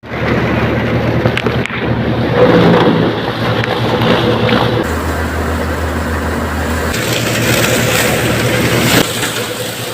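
Tractor engine and threshing machinery running steadily, in short pieces that change abruptly about two, five and seven seconds in.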